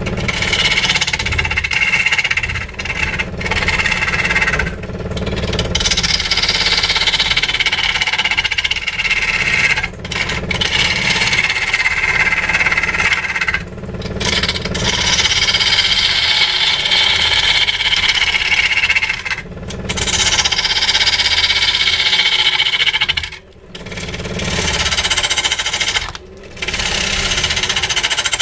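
A power tool working wood in long passes of several seconds each, broken by short pauses, its pitch sometimes falling during a pass.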